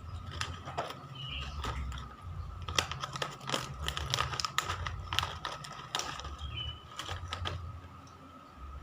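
Battery-powered toy cat running, a low motor hum under many irregular clicks and rattles from its moving parts.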